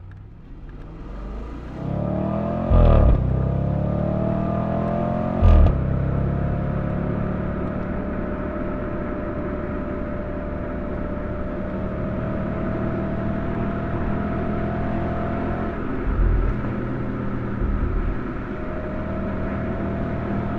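2013 Audi RS5's V8 engine heard from outside the car, accelerating hard with a rising pitch and two quick upshifts, each marked by a sudden pitch drop and a loud low thump. The engine then pulls steadily at a slowly rising pitch, with a couple of softer thumps near the end.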